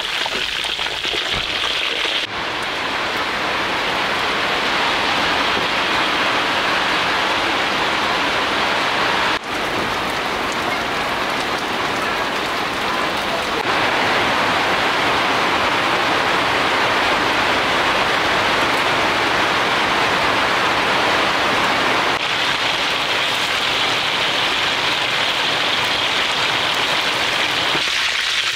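Pork belly roll deep-frying in a wok of hot oil: a steady, dense sizzle and crackle, with a few abrupt shifts in level.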